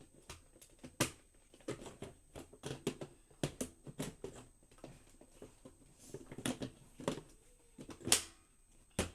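Scattered clicks and knocks of a vacuum cleaner and its parts being handled, with the motor not running; the sharpest clicks come about a second in and twice near the end.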